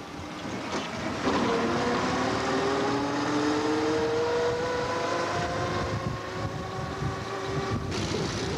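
An open-top car's engine pulling on the road, its note climbing slowly and steadily as the car gathers speed, with wind and road noise rushing past. The sound changes abruptly near the end.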